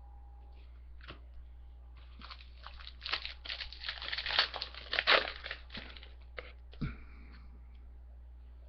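A foil trading-card pack being torn open, its wrapper crinkling in a run of rustling bursts for about four seconds, with a few single clicks before and after.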